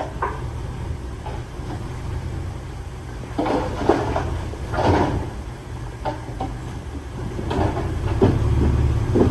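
Heavy diesel earthmoving machinery running with a steady low rumble, with bursts of rattling and scraping about three seconds in and again near the end.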